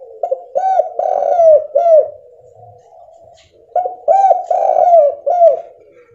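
Spotted dove (tekukur) cooing: two phrases of several rounded coo notes, about two seconds apart.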